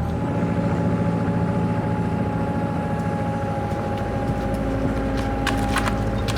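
Kubota KX121-3 mini excavator's diesel engine running steadily under throttle, with a few short sharp clicks near the end.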